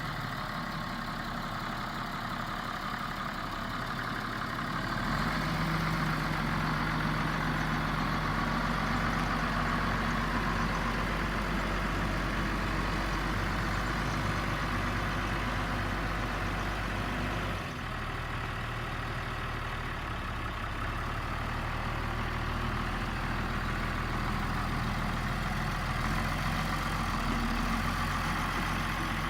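Case MXM 140 tractor's diesel engine running steadily. It gets louder about five seconds in and dips briefly a little past halfway.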